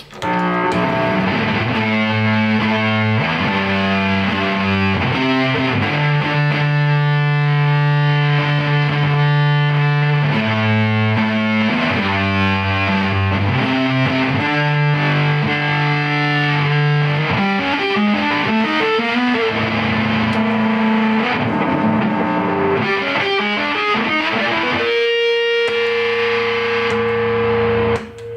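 Electric guitar played through a Julungas Microwaves triple fuzz pedal, with a little reverb: thick, distorted chords held and changed every second or two, then a single sustained note for the last few seconds.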